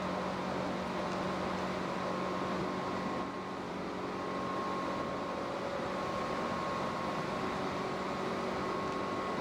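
Tobu 8000 series electric train running, heard from inside the car: a steady rumble of wheels and running gear with a faint, even hum.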